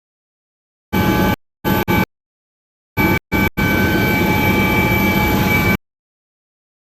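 Helicopter cabin noise: a steady engine and rotor din with several steady high whining tones. It cuts in and out to dead silence several times, the dropouts of the live-stream audio, and is absent for the first second and the last second or so.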